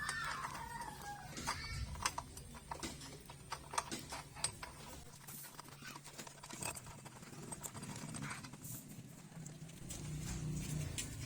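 Scattered light clicks and taps over a steady low hum, with a call falling in pitch in the first second.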